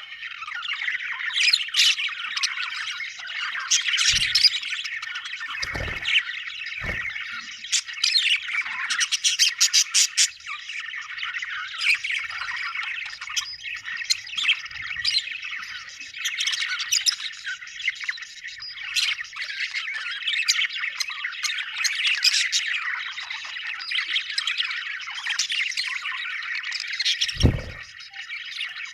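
Budgerigars chirping and chattering nonstop, several birds at once, with sharp squawks mixed in. A few dull low thumps sound briefly, around six seconds in and again near the end.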